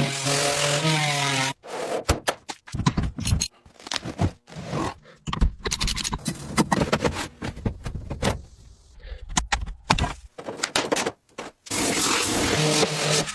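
Quick-cut series of short workshop sounds: scraping and knocks, starting with a brief rising whine.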